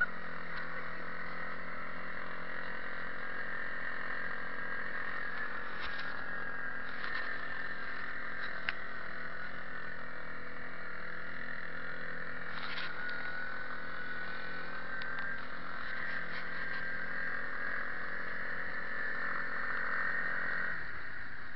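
Arctic Cat ATV engine idling steadily, with a few light clicks over the top.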